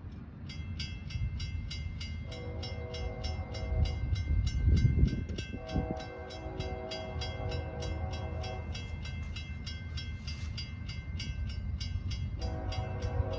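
A railroad grade-crossing bell starts ringing rapidly about half a second in, while an approaching locomotive blows its air horn in three long blasts over a low engine rumble.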